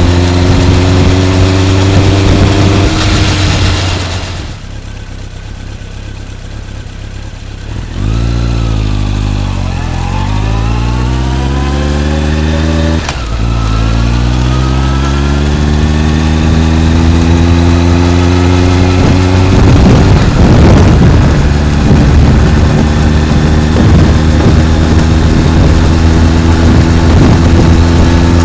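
Honda CB motorcycle with a titanium full exhaust system, heard while riding. After a quieter stretch about four seconds in, the exhaust note climbs as the bike pulls away, drops at a gear change about halfway, climbs again, then settles to a steady cruise under heavy wind noise on the microphone.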